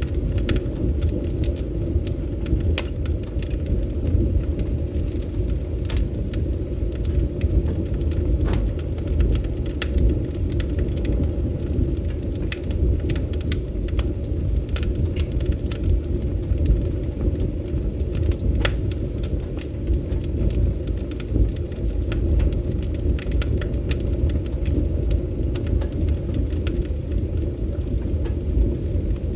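Wood fire burning, with a steady low roar from the flames and irregular sharp crackles and pops.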